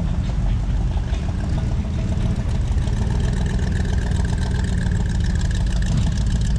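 Car engine running at idle close by, a steady low rumble, with a thin steady whine joining it for a few seconds in the middle.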